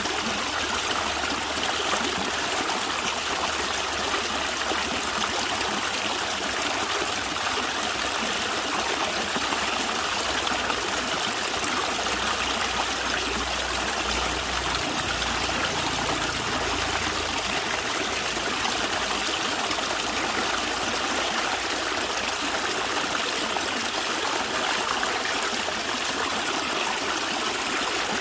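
A stream flowing steadily over rocks, a constant rushing and trickling of water.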